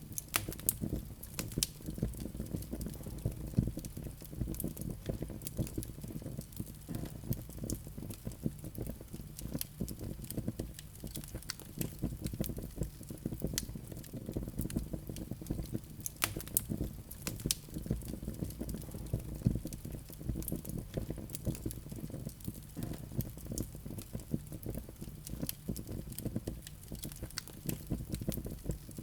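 Wood fire burning in a fireplace: a low steady rumble of flames with frequent small crackles and pops, a few of them sharper than the rest.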